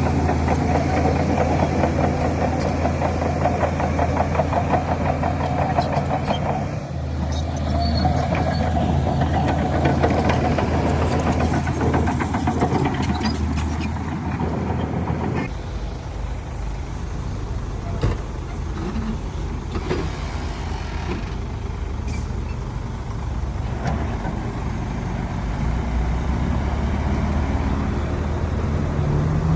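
Heavy diesel engines of a bulldozer and dump truck running under work. The engine note shifts about seven seconds in and again about fifteen seconds in, with a single sharp knock a little later.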